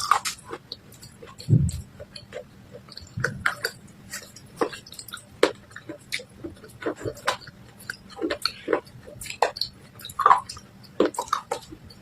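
Close-up biting and chewing of brittle baked clay (matka) and slate pencil pieces: irregular sharp crunches one after another, with a low thud about one and a half seconds in.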